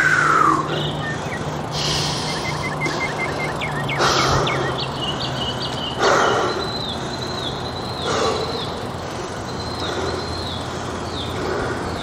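Small birds chirping in quick runs of short high notes, one repeated falling note over several seconds, over a steady outdoor background. A few louder short sounds come at the start and again about four, six and eight seconds in.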